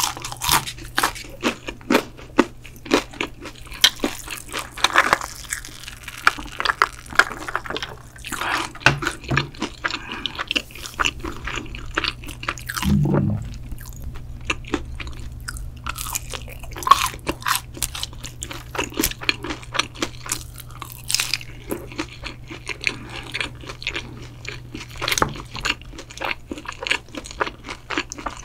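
Close-miked chewing and biting of pizza and crispy fried chicken, with many irregular crisp crunches. A steady low hum runs underneath, and there is one brief low thump about halfway through.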